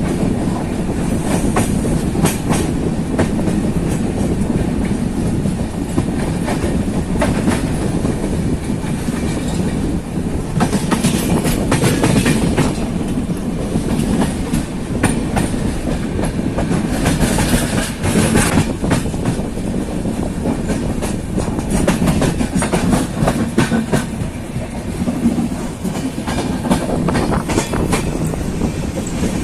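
Netravati Express passenger train running at speed, heard from on board: a steady rumble of the coach on the track, with irregular clicks and clacks as the wheels pass over rail joints.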